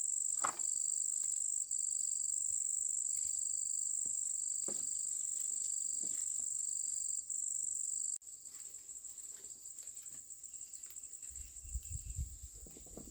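Insects trilling steadily at a high pitch, with an even pulsing beneath the drone; it drops abruptly to a quieter level about eight seconds in. A few soft knocks, and a low rumble near the end.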